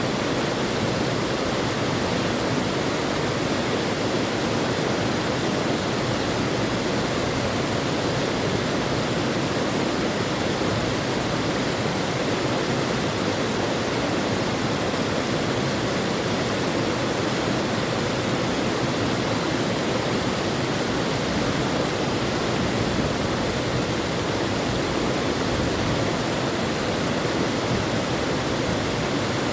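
River water flowing, a steady even rush with no change.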